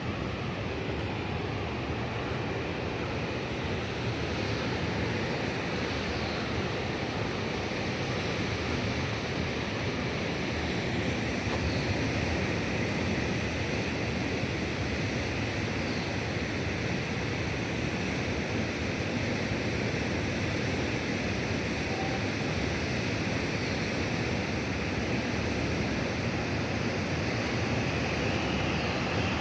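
Steady rushing noise of vehicles moving on a road, with wind mixed in, growing slightly louder over the first dozen seconds.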